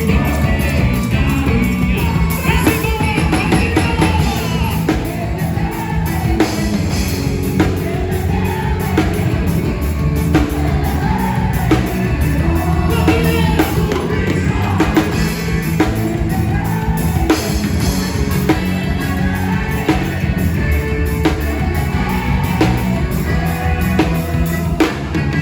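Band music with a steady drum kit beat, bass notes and singing.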